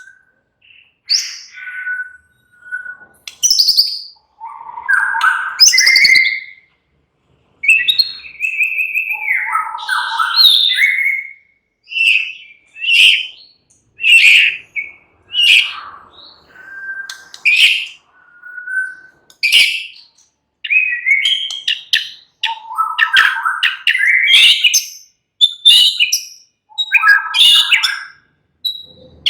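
White-rumped shama (murai batu) singing: a varied run of short whistled phrases and chirps, some notes sliding up and down in pitch, with brief pauses between phrases.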